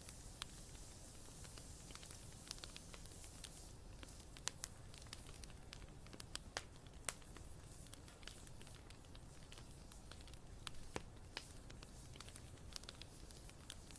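Wood fire crackling: irregular sharp pops and snaps over a faint low hiss, with a few louder pops in the middle.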